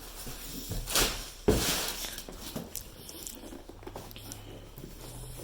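Handling noise: a knock about a second in, a sharper knock half a second later followed by a brief rustle, then light scuffling.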